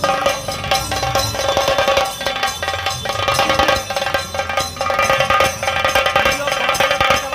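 Dhol tasa drum ensemble playing a fast, dense rhythm of drum strokes, with a steady ringing tone over it.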